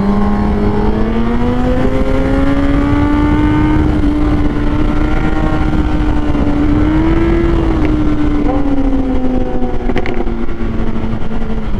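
Kawasaki Z800 inline-four motorcycle engine pulling hard at high revs, its pitch climbing slowly and steadily for about seven seconds, then dropping as the throttle eases, over a steady rush of wind noise.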